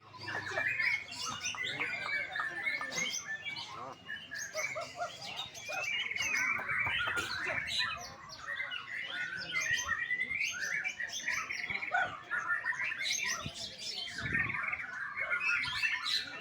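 A songbird singing a fast, unbroken run of varied chirps and twitters.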